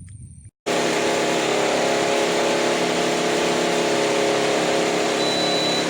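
Lloyd air conditioner's blower running with a loud, steady buzzing and hard vibration, starting about half a second in. The cause is a broken plastic bush on the blower shaft.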